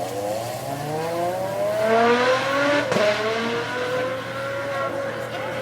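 Supercar engine accelerating hard, its note rising for about two seconds, with a sharp break about three seconds in, then holding a steady, slowly falling note.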